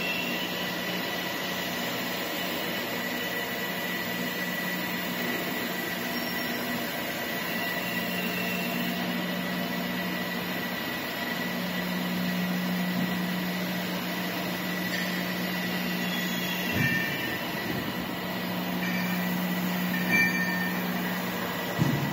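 Steady machinery hum with a low drone and a thin high whine, with a few short knocks in the last several seconds.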